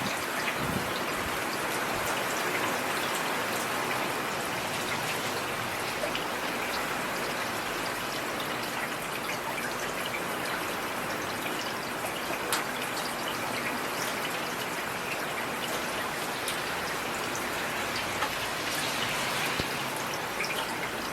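Heavy rain falling steadily: a dense, even hiss of rain with many scattered individual drop ticks.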